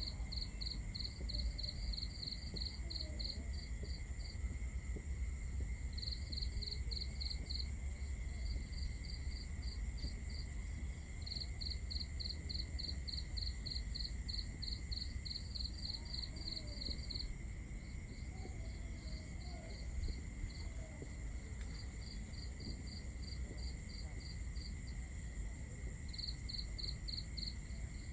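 Crickets chirping at night. One cricket gives quick, even chirps, about five a second, in bouts of a few seconds with short pauses between them. Under the chirps runs a steady high-pitched insect trill and a low rumble.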